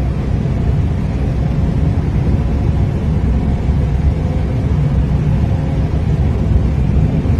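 Steady low road and tyre rumble of an electric Tesla Cybertruck being driven, heard from inside the cab, with a faint steady hum and no engine sound.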